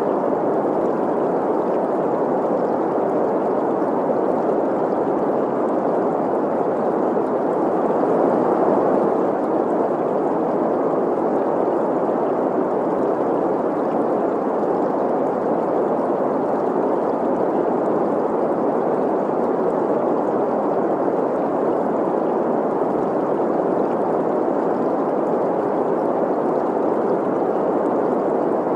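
Green noise: a steady, even hiss centred in the middle range, mixed with the sound of a flowing stream.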